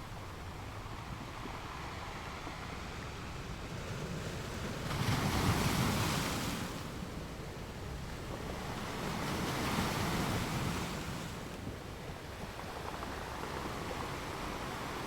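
Ocean waves washing onto a shore, a steady hiss with two waves swelling up and falling away, the first about five seconds in and the second about ten seconds in.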